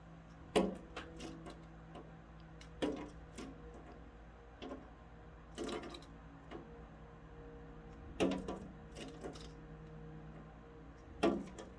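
A small bird striking and pecking at window glass: five sharp taps two to three seconds apart, each followed by a few lighter ticks, over a steady low hum.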